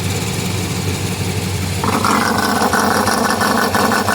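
Chrysler 360 small-block V8 idling with a rapid ticking, puffing exhaust leak from a bad check valve in the air-injection line; about two seconds in the ticking gets much louder.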